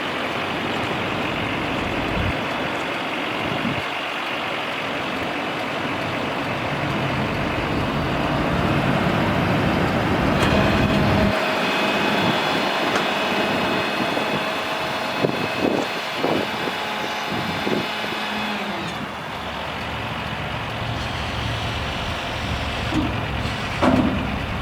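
Ford F650 dump truck running steadily, with a high steady whine joining in for several seconds midway and a few short knocks later on.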